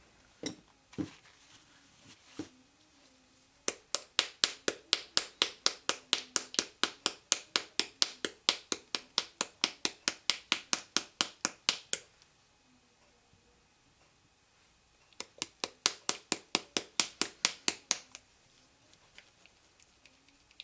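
Small bottle of gold paint writer being shaken or tapped hard to bring the paint stuck in the bottom down to the tip: a few separate knocks, then a fast, even run of sharp clicks, about five a second, for some eight seconds, a pause, and a second shorter run near the end.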